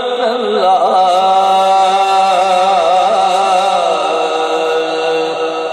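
A man's voice chanting the durood salawat in one long, drawn-out melismatic line, holding the note with small wavering ornaments and stepping slightly lower about four seconds in.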